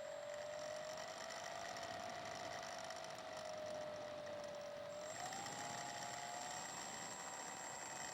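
Electric motor and propeller of a Slow Stick RC plane in flight, a steady whine over hiss, picked up by the plane's own foam-covered microphone. The pitch rises a little about five seconds in.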